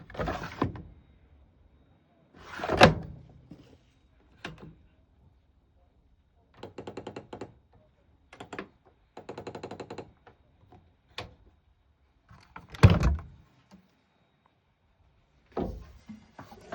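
Zanussi Flexi Dose ZWH7160 washing machine being handled: a string of thunks and clicks, with loud thumps about three seconds in and near thirteen seconds, and two short runs of rapid even clicking, like the programme dial being turned, in between.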